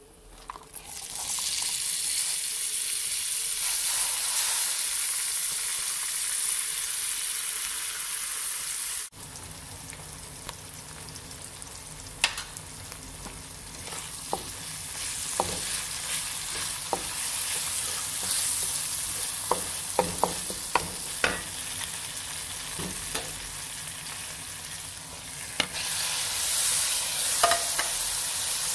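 Spices frying in hot oil in a pan with a loud, steady sizzle, which stops abruptly at a cut about 9 seconds in. Then sliced onions sizzle quieter in the oil while a wooden spatula stirs them, with scattered knocks and scrapes against the pan. The sizzle grows louder again near the end.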